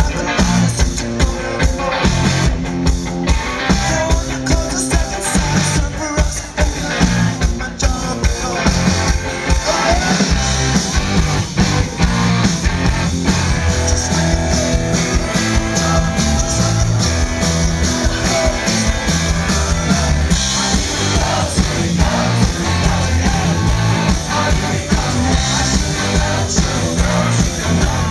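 Live rock band playing a song with electric guitars, bass and drums keeping a steady beat.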